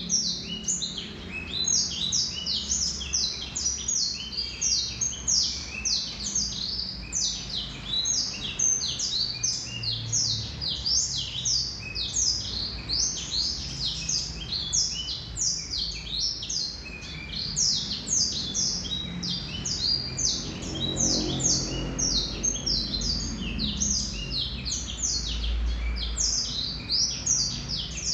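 Male black-throated canary (blackthroat) singing a long unbroken song: a fast string of short, high notes, several a second, many of them quick sweeps in pitch.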